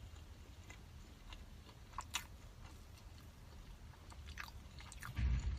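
A person chewing and biting food close to the microphone, with a few crisp clicks. A dull low thump comes near the end.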